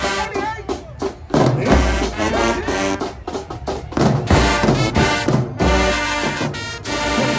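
Marching band playing: brass with heavy bass-drum hits and percussion.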